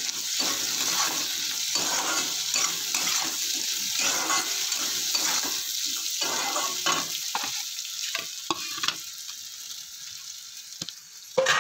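Diced potatoes and sliced onions sizzling in oil in a black kadai, a metal spatula scraping and turning them in repeated strokes. The stirring thins out and the sizzle drops after about eight seconds, ending with a sharp knock of the spatula.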